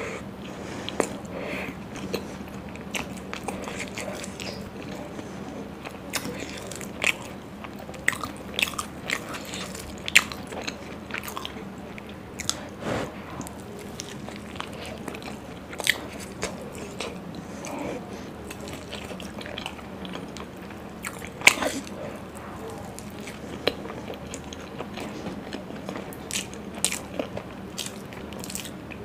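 Close-miked biting and chewing of big mouthfuls of puri with paneer and dum aloo curry: a steady wet chewing sound broken by irregular sharp crunches and clicks, the loudest about ten seconds in and again a little after twenty seconds.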